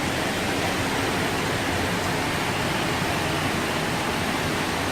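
Floodwater rushing, a steady unbroken noise of running water.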